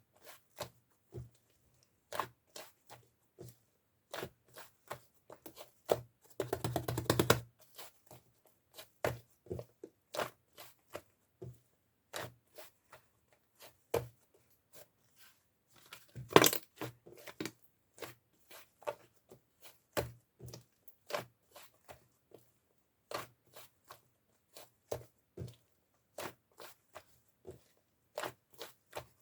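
Clay-type slime being pressed, stretched and pulled off a desk: a string of sharp sticky clicks and pops, with a dense crackling stretch about six seconds in and a louder snap about sixteen seconds in.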